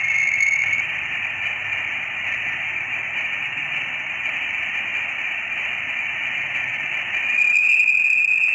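Voyager 1's interstellar plasma-wave signal converted to audio: a steady hiss with a thin high tone running through it. The tone grows stronger about seven seconds in.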